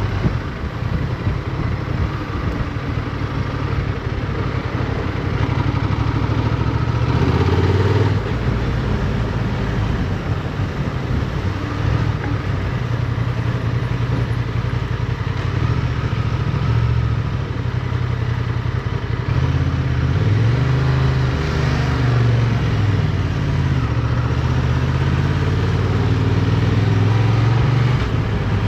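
Motorcycle engine heard from on board while riding, its pitch rising and falling as the rider accelerates, shifts gear and slows for turns.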